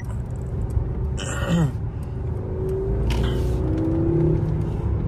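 Mercedes-Benz S580's twin-turbo V8 and road rumble heard from inside the cabin as the car accelerates at about 3,000 rpm, the engine note rising gently in pitch in the second half.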